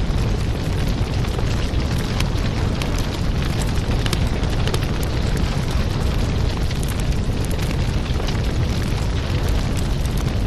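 Wood fire crackling in a fireplace: a steady low rumble of burning, with many small sharp pops and snaps scattered through it.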